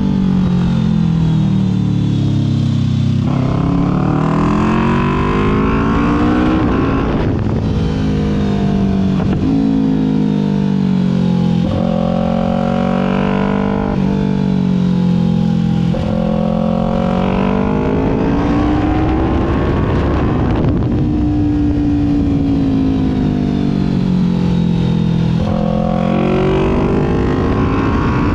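Kawasaki Ninja 400 parallel-twin engine heard on board while riding, its pitch climbing under throttle and falling away again every few seconds, with abrupt jumps in pitch between runs.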